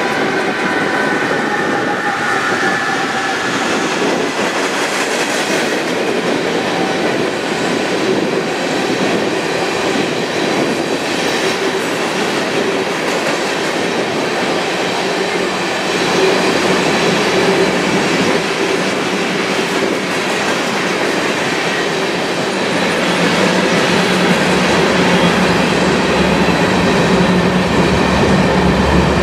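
Union Pacific freight train passing at speed. A whine from the last diesel-electric locomotives fades over the first few seconds. After that comes a steady rumble and clickety-clack of covered hopper car wheels on the rails, growing a little louder and deeper near the end.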